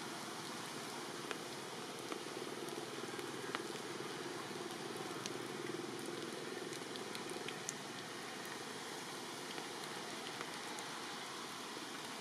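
Steady rainfall, an even hiss with scattered sharp ticks of individual drops.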